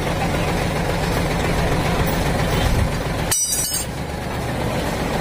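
Kubota M8540 tractor's diesel engine running steadily, with a brief dropout in the sound about three and a half seconds in.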